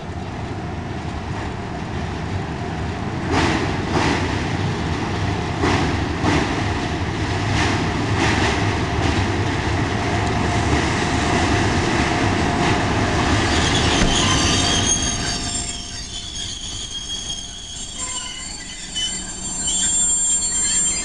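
A train rolling slowly along the track and growing louder, its wheels clacking over rail joints in a run of knocks. Over the last third the clacking gives way to high-pitched wheel squeal in several steady tones.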